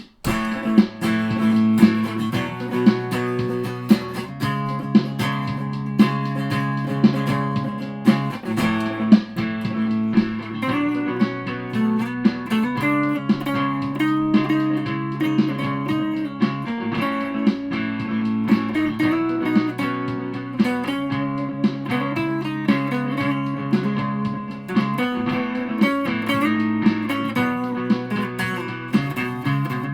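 Aria Pro II Thor Sound electric guitar played through distortion and fuzz pedals, a heavy riff on sustained low notes with regular picked attacks, starting just after a brief gap.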